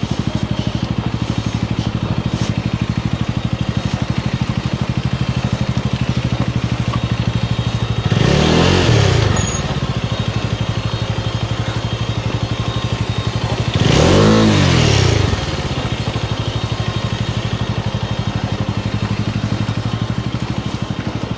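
Motorcycle engine running slowly with an even beat, revved up twice, about eight and fourteen seconds in: bursts of throttle to pull the bike through slushy mud.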